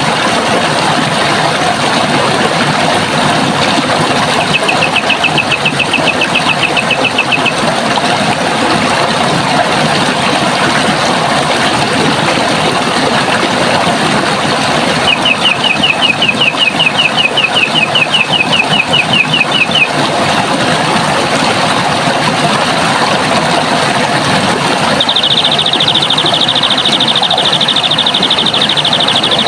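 Running water rushing steadily, with a bird's rapid high trill in three spells of a few seconds; the last spell is higher and faster.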